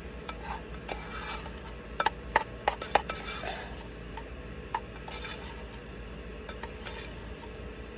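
A spoon scraping and clinking against a cooking pot while rice is served, with a quick run of sharp taps about two to three seconds in and another tap near five seconds.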